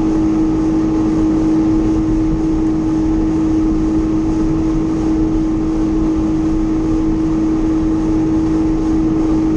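Jet ski engine running at a steady throttle: a constant, unwavering drone over a rough low rumble.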